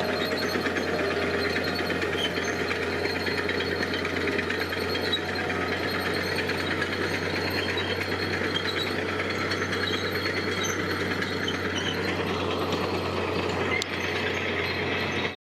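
Diesel engine of heavy construction machinery running steadily with a fast, even rattle, cutting off abruptly near the end.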